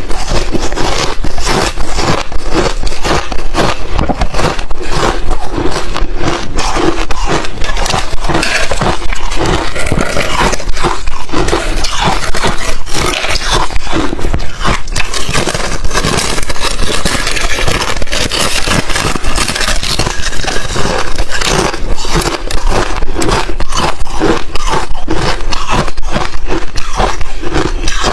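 Crushed ice chips being bitten and chewed: a loud, dense crunching and crackling of breaking ice that runs on without pauses.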